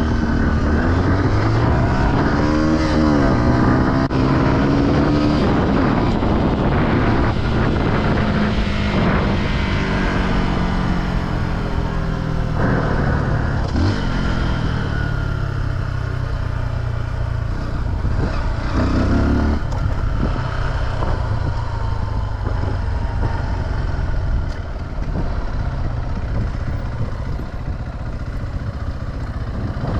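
Single-cylinder off-road engine under way over trail, its revs rising and falling again and again as the rider works the throttle and gears.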